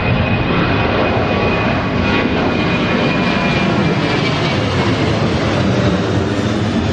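Jet airliner's engines running loud and steady, with a thin high whine that drifts slightly lower in pitch over the first few seconds.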